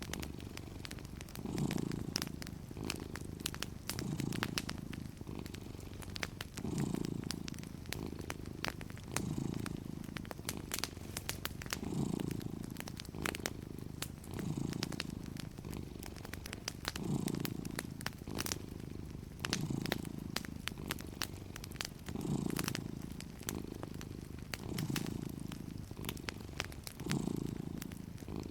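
Domestic cat purring steadily, each breath cycle swelling and fading about every two and a half seconds, over the scattered crackles and pops of a wood fire.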